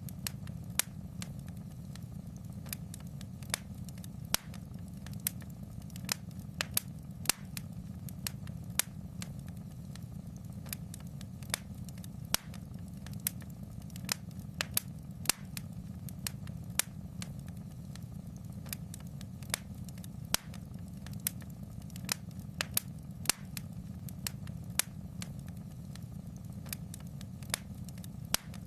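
Wood fire in a fireplace crackling: irregular sharp pops and snaps, one or two a second, over a steady low rumble of the burning fire.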